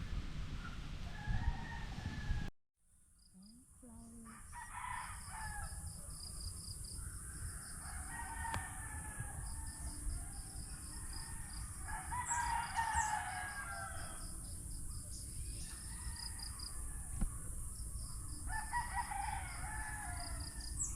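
Long bird calls, about four of them a few seconds apart, each lasting about a second and a half, over a fast, steady high-pitched pulsing sound and a low rumble.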